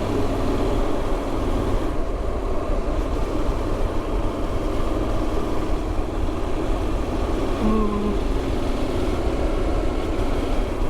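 Motorcycle engine running steadily at low speed, with road noise heard through an in-helmet microphone. A short tone sounds about eight seconds in.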